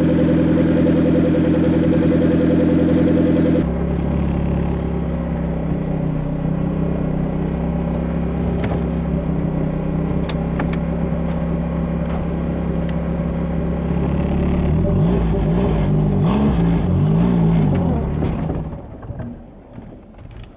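Nissan Sentra's turbocharged SR20DE engine running steadily. Its pitch drops about four seconds in, it revs up and down in short wavers near the end, and then the sound falls away shortly before the end.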